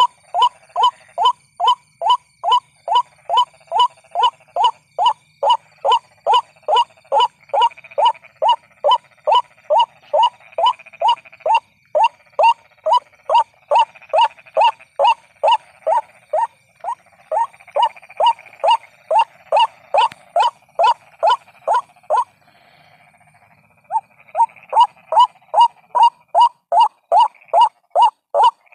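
White-breasted waterhen call repeated over and over at about three calls a second: a recorded lure call for drawing the birds in. The calls break off for a second or two about 22 seconds in, then resume.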